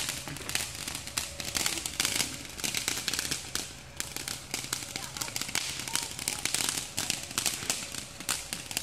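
Ground fireworks crackling: a dense, uneven run of small sharp pops and crackles.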